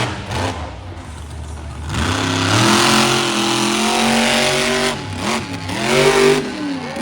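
Monster truck engine revving hard: the pitch drops in the first couple of seconds, climbs steeply about two seconds in and holds high, eases off near five seconds, then blips up and down in quick revs near the end.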